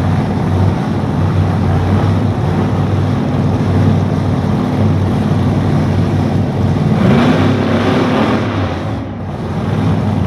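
Engines running steadily at low revs. About seven seconds in, one gets louder with a short rising note, then eases off.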